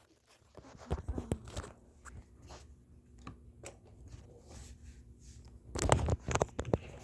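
Handling noise: scattered clicks, knocks and rustles, with a louder cluster of knocks about six seconds in.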